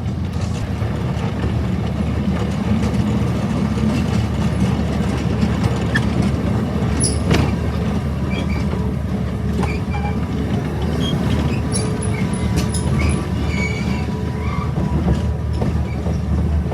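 Ride train rolling along its track, a steady low rumble with faint scattered squeaks and clicks over it.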